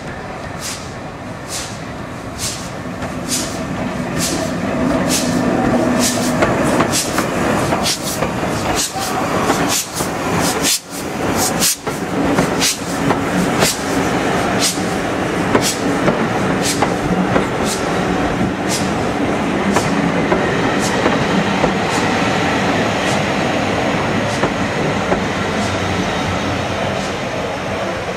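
Passenger train hauled by a Midland 4F steam locomotive running past, its carriage wheels clicking over the rail joints in a steady rhythm over the rumble of the train. It grows louder over the first few seconds as the train comes close.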